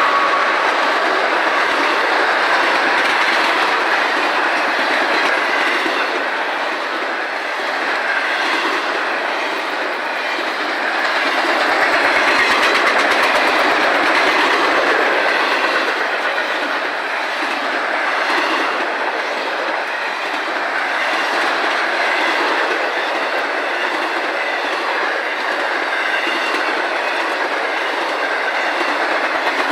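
Intermodal freight train cars rolling past at speed: a steady, loud rumble of steel wheels on rail, with a continuous clickety-clack over the rail joints.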